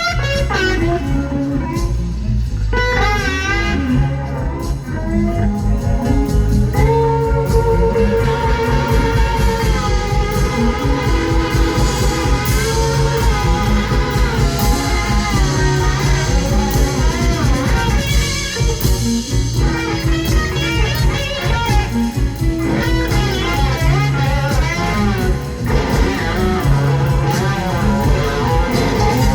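Live blues band playing a slow blues instrumental passage: a lead electric guitar solo with bending, wavering notes over bass and drums.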